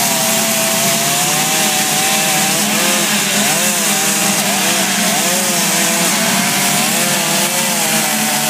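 Two-stroke chainsaw running steadily as it carves wood, its engine pitch wavering up and down as the blade bites and eases off.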